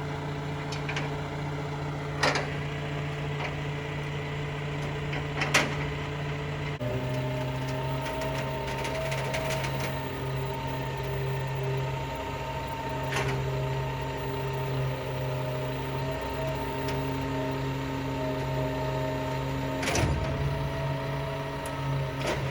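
A vehicle engine running steadily, dropping to a lower pitch about seven seconds in, with a few sharp clicks and knocks over it.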